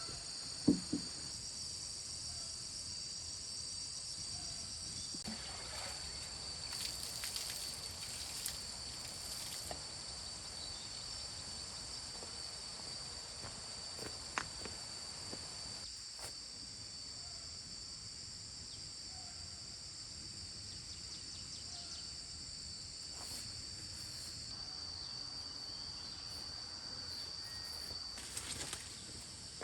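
Several insects shrill steadily in the forest, in a few high-pitched bands. A sharp knock comes just under a second in, and a few faint clicks and rustles follow.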